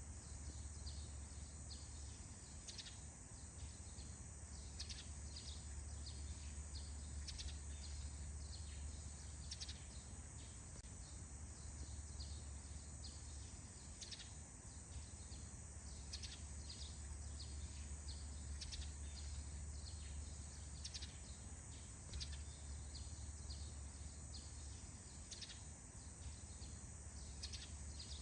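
Faint morning forest ambience: many short, high bird chirps scattered throughout, over a steady high-pitched drone and a low rumble.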